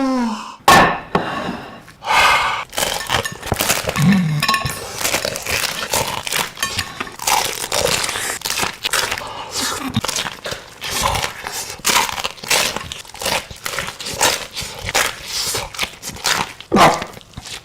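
Close-miked mukbang eating of sausage rolls: chewing, biting and crunching, with a dense run of irregular crinkly, crackling clicks.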